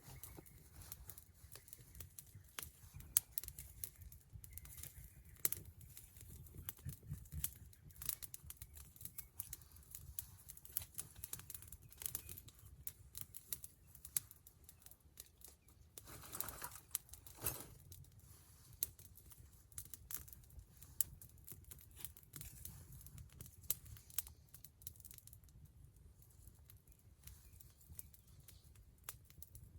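Wood fire crackling, with frequent sharp snaps and pops over a low steady rumble, and a louder burst of crackle for a second or two about midway.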